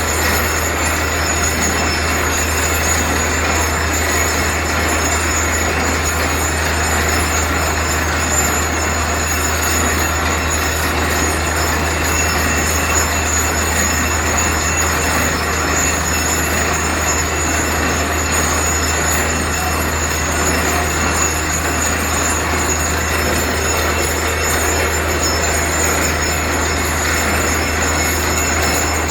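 Borewell drilling rig running steadily at the well: a loud, even mechanical noise with a strong low hum underneath that does not change.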